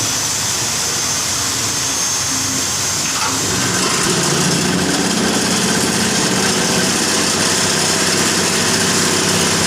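Engine of a concrete-block moulding machine running steadily, getting a little louder and heavier about four seconds in.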